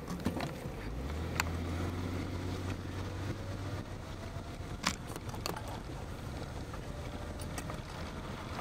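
A car engine running, heard from inside the cabin. A low hum comes in about a second in and fades by about four seconds, over a steady rushing noise, with a few sharp clicks.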